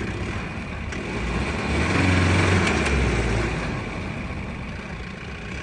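4x4 vehicle's engine revving up for a couple of seconds and then easing off as the driver tries to drive it out of riverbed mud, where it is stuck and not moving.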